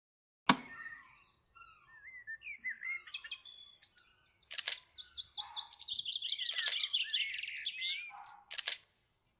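Birdsong: a run of quick chirps and sliding whistles building into a dense, rapid trill, with a few sharp clicks among them, the first about half a second in being the loudest.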